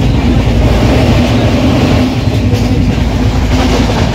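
Moving passenger train heard from inside the coach: the loud, steady running noise of the wheels on the rails.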